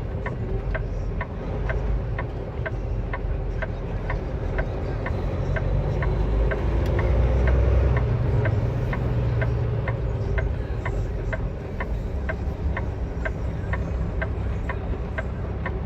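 A semi truck's turn signal ticking steadily, about two to three ticks a second, over the low rumble of the idling diesel engine in the cab. The rumble swells a little around the middle.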